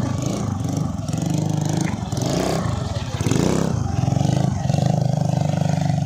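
Motorcycle engine running, revved up and back down a couple of seconds in.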